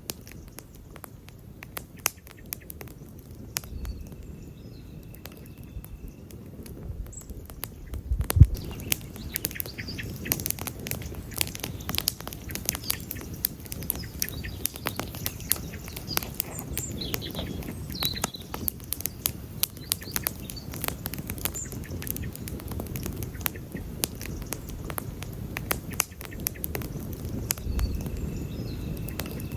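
Wood campfire crackling and popping irregularly over the low rumble of the flames, with one sharp, loud pop about eight seconds in.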